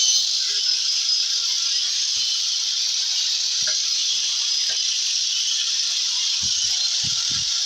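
Angle grinder running steadily as it cuts into a wooden subwoofer box, a constant high hiss with a faint steady whine, and a few soft low knocks near the end.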